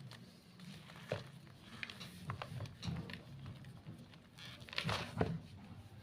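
Gym chalk crunching and crumbling as it is crushed: a few irregular sharp crunches, loudest near the end.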